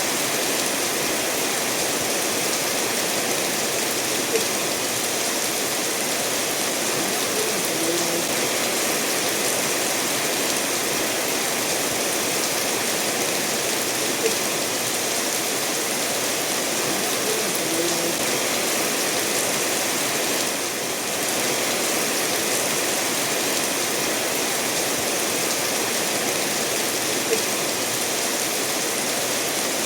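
Steady rain falling together with a stream running over stones, an even rushing wash of water, with a few sharp drips standing out now and then.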